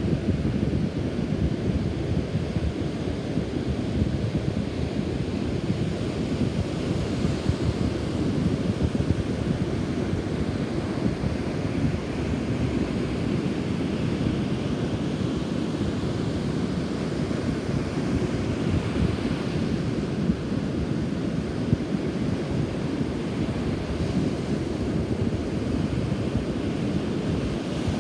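Rough surf breaking and washing on a beach, churned up by a typhoon passing nearby, under strong gusting wind that buffets the microphone with a heavy rumble. The hiss of the wash swells and fades several times.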